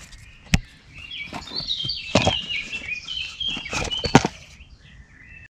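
Songbirds singing: a run of high, quick notes stepping downward, with other chirps around it. A few sharp knocks from handling close by break in, the loudest about half a second in and about four seconds in.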